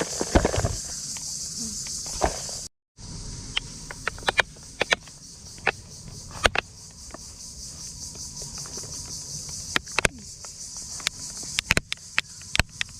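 Steady high-pitched insect drone, like crickets, with scattered sharp clicks and knocks. The sound cuts out completely for a moment about three seconds in.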